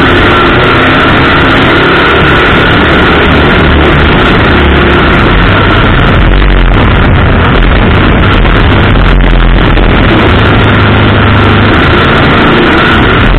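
Race car engine running at speed on an oval track, heard from a camera mounted on the car's own hood: constantly loud, with the low rumble swelling twice in the middle as the throttle changes.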